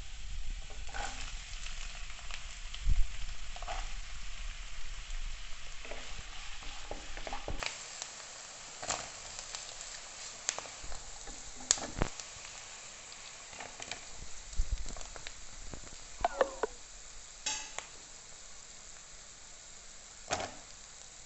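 Chopped garlic sizzling in hot oil in a pan, then chopped onion and carrot frying after about seven seconds, with a wooden spatula knocking and scraping against the pan now and then.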